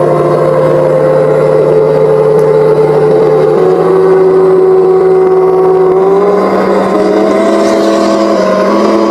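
Land Rover Defender's 300Tdi four-cylinder turbo diesel engine running steadily, its note stepping up slightly in pitch a few times as engine speed rises.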